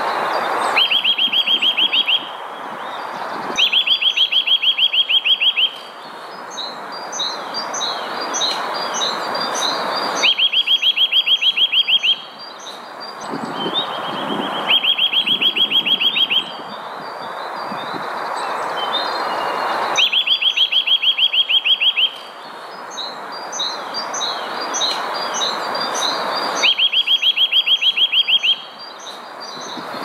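A songbird's loud, rapid trill on a single pitch, sung six times at uneven intervals, each lasting about two seconds. Softer chirps from other birds fall between the trills over a steady background hiss.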